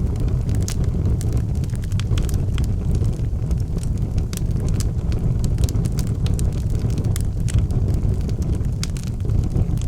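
Logs burning in a fireplace, with frequent sharp crackles and pops over a steady low rumble of the flames.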